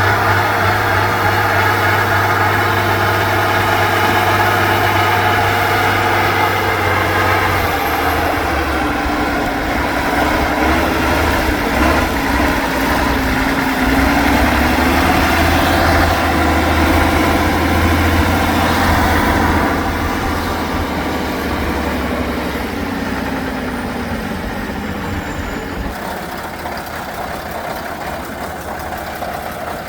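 Heavy off-road truck's diesel engine running steadily, its pitch rising and falling as it works through the middle stretch, then growing gradually quieter toward the end.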